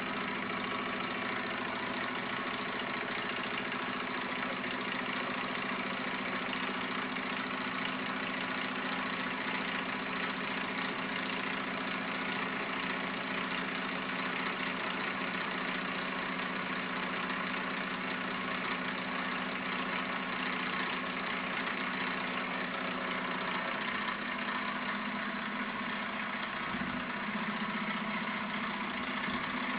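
Gamma-type Stirling engine running steadily, a continuous even mechanical running sound. Its tone shifts slightly a little after the middle, with a brief low thump soon after.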